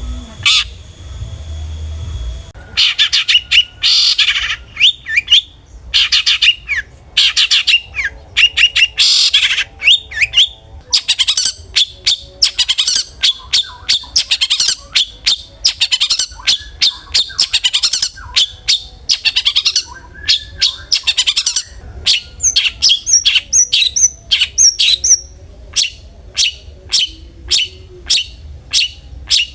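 Long-tailed shrike (cendet) calling in dense runs of short, sharp notes, with a stretch of higher chirps and then evenly spaced single notes near the end. A steady hum with thin steady tones comes before the calling, for the first two seconds or so.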